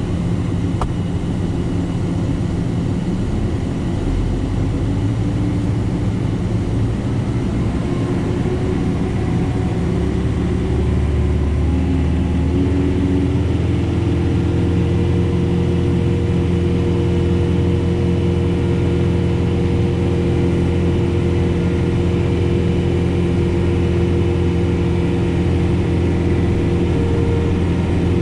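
John Deere 4066R compact tractor's diesel engine running steadily, heard from inside the cab. About ten seconds in, the engine speed rises, and it settles at a higher steady pitch.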